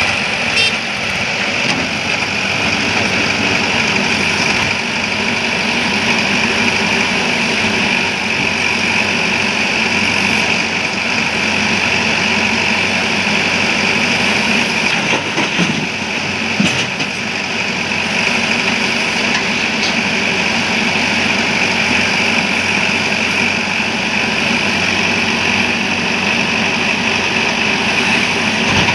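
Heavy diesel engine running steadily at constant speed, with a couple of brief knocks near the start and about halfway through.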